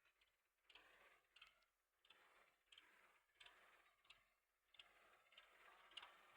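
Near silence with faint ticks, about one a second, over a light hiss.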